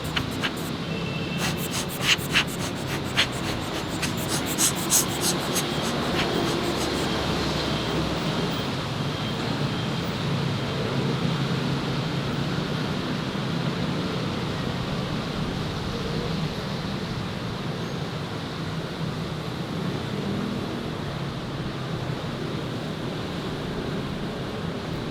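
City street ambience: a steady wash of traffic noise with a low hum, and a quick run of sharp clicks or knocks in the first five seconds.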